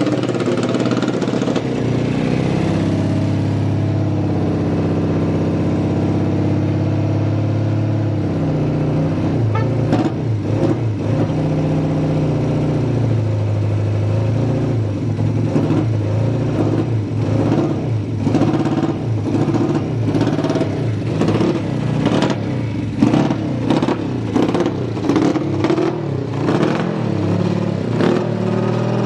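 Honda CB175 air-cooled parallel-twin engine running at a steady idle for several seconds, then revved again and again with throttle blips that come quicker toward the end. The seller rates it as a stable idle with no abnormal noises.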